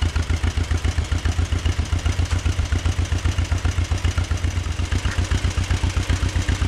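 Tractor engine idling with a steady, even pulsing beat.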